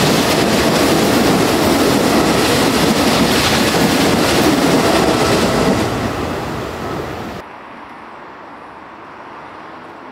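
A Nankai Railway electric train passes through the station at speed, its wheels running loudly on the rails. The noise fades as it moves away, and at about seven seconds it cuts abruptly to much quieter background.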